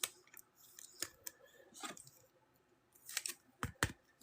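Trading cards and card packs being handled: scattered soft clicks and rustles, with two sharper clicks shortly before the end.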